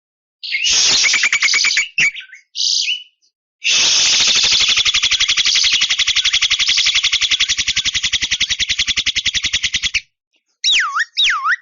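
Javan myna calling: a harsh rattling chatter, then a long fast buzzing rattle lasting about six seconds, and near the end a run of loud swooping whistles that rise and fall.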